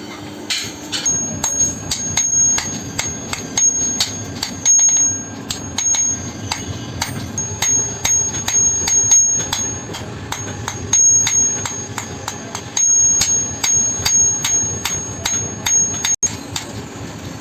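Hammer blows on steel over an anvil, about three strikes a second, each with a high metallic ring, as rusted steel is forged into a blade.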